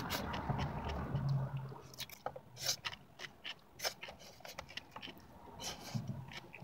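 Close-up chewing and lip-smacking of a mouthful of pineapple pie: a string of sharp, wet smacks and clicks. A low hum sits under the first second or two.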